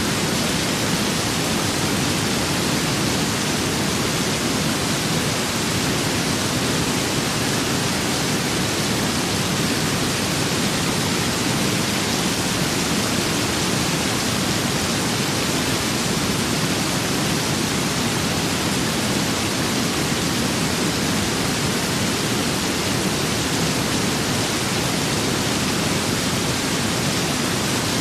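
Rain and wind ambience: an even, unbroken hiss at a constant level, with no separate drops, gusts or thunder.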